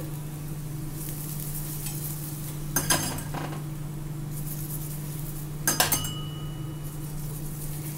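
Stuffed paratha sizzling in oil on a hot tawa, a steady hiss of frying. A steel spoon scrapes and clinks against the paratha and pan twice, about three seconds in and again near six seconds. The second contact leaves a brief faint ring.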